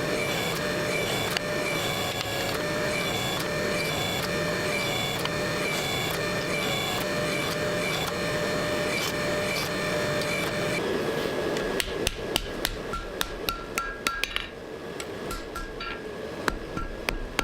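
A workshop machine runs steadily, with a faint regular pulse, then stops about eleven seconds in. Sharp, irregular metal knocks follow, a few a second, some with a brief ring.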